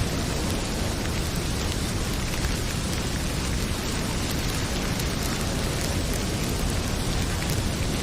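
Heavy rain pouring steadily, with a wood fire in a fireplace crackling now and then, a few faint pops over the rain.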